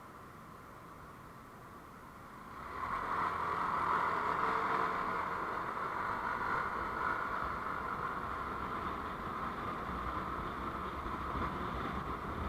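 Road vehicle noise, a steady rushing sound that swells suddenly about two and a half seconds in and then holds.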